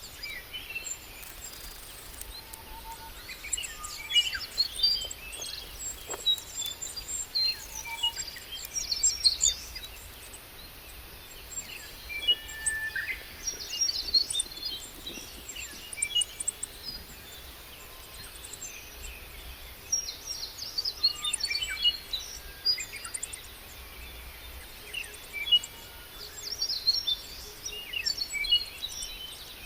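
Small birds chirping and singing in quick clusters of short, high notes every few seconds, over a steady faint background noise.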